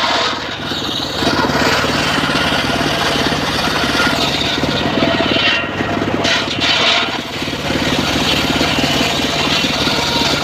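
Homemade engine-driven circular sawmill running: the engine throbs steadily with a fast, even pulse, and the saw's higher sound shifts briefly a few times as it works through teak.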